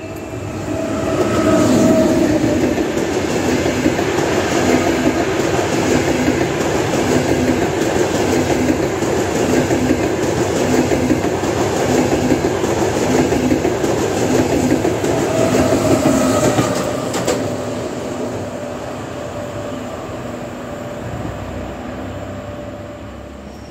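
Trenitalia Frecciarossa high-speed electric train passing through the station: a loud rush of wheels on rail with a regular clickety-clack as the bogies cross the rail joints. The noise builds about a second in, holds for some fifteen seconds, then fades as the train draws away.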